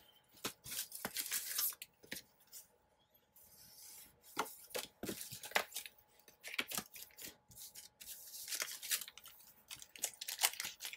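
Paper being handled and torn in a series of short, scratchy strokes, with rustling and small taps and a brief lull about two seconds in.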